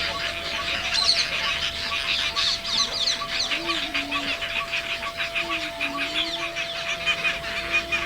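Many birds chirping and calling at once, a dense, unbroken chatter of quick high notes.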